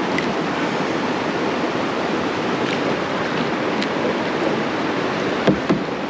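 Steady rush of creek water over rough water, with two short knocks close together near the end.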